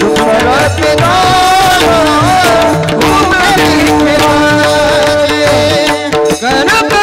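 Marathi devotional kirtan music: singers with a sung melody that bends in pitch over a steady held drone, accompanied by mridang and tabla drums.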